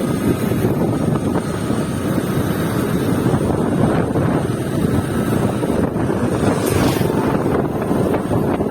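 Wind rushing over the microphone of a moving motorcycle, mixed with the bike's running and road noise, steady throughout.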